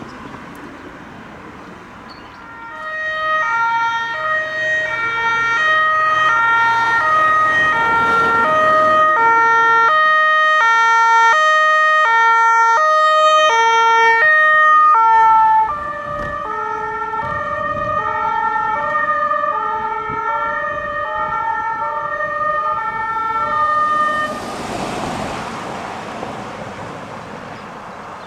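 Emergency vehicle's German two-tone siren (Martinshorn) sounding, its two pitches alternating about twice a second. It grows loud about three seconds in and drops suddenly at about fifteen seconds. It then carries on quieter and fades out about twenty-five seconds in.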